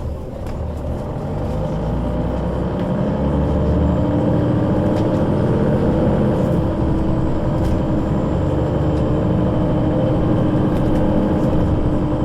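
Solaris Urbino 12 III city bus with a Voith automatic gearbox accelerating: the engine and driveline grow louder over the first few seconds, then run steadily under a slowly rising whine.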